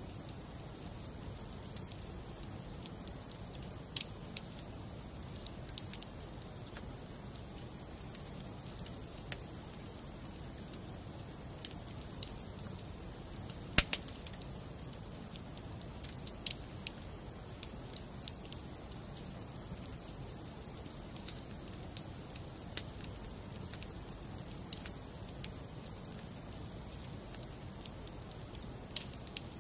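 Wood fire burning in a fireplace: a steady low rumble with scattered sharp crackles and pops from the burning logs, one loud pop about halfway through.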